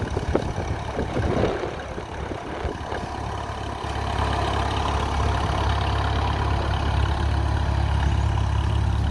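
Farmall H tractor's four-cylinder engine running: uneven with a few knocks at first, then settling into a steady idle about four seconds in.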